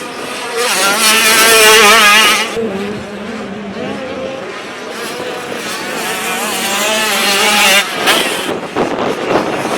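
85cc two-stroke motocross bikes racing, their engines revving hard with the pitch wavering up and down rapidly as riders work the throttle. They are loudest about a second in and again in the second half.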